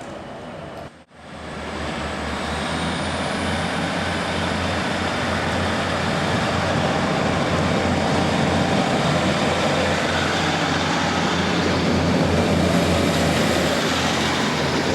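A train running through the station and getting gradually louder, with a low pulsing hum under a broad rushing noise. The sound cuts out briefly about a second in.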